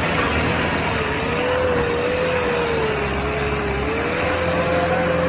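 Tractor engine running steadily, with a whining tone that sags slightly and picks up again near the end.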